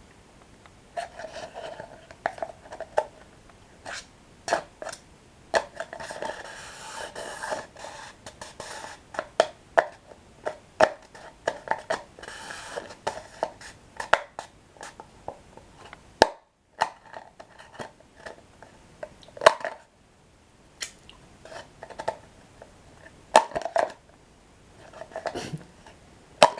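Close-miked chewing and crunching of toasted breadsticks with cocoa cream, full of sharp mouth clicks and crackles. The crunching is densest about six and twelve seconds in, and there is a brief silent gap a little past halfway.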